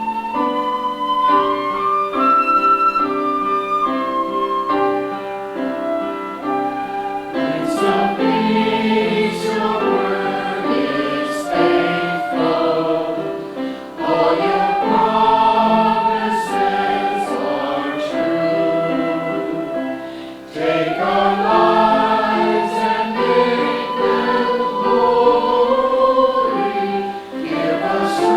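Choir singing in sustained chords, in phrases separated by two short breaks about halfway through and about two-thirds of the way through.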